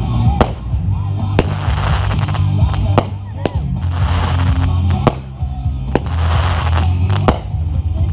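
Aerial fireworks going off: several sharp bangs a second or so apart, with hissing, crackling bursts between them. Music with a heavy bass plays underneath.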